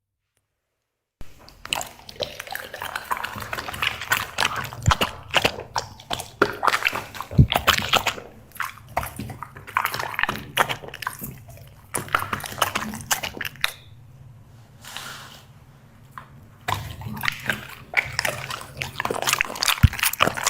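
Black Labrador chewing and smacking its food close to the microphone: many sharp wet clicks and crunches. It begins after about a second of silence and goes quieter for a couple of seconds about two-thirds of the way through.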